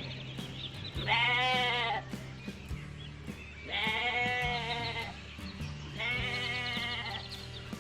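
Three long, wavering bleats from a sheep or goat-type farm animal, about a second in, around the middle and near the end, over background music with a steady low bass line and light percussion clicks.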